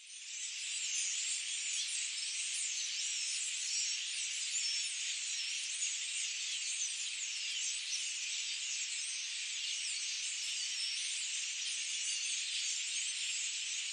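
A dense chorus of many small forest birds chirping and twittering at once, high-pitched and unbroken. It fades in over the first moment.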